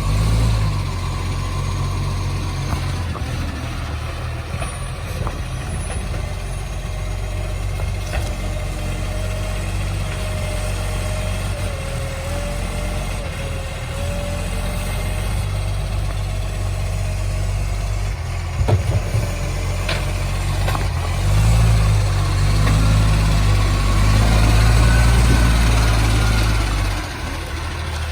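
Garbage truck's diesel engine running with a massive exhaust leak that makes it roar, idling steadily at first. A sharp knock about two-thirds of the way through, then the engine grows louder for about five seconds near the end before dropping back.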